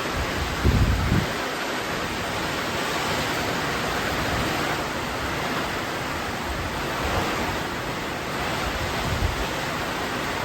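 Hurricane wind and rain: a steady rushing roar, with low thumps of gusts buffeting the microphone about a second in and again near the end.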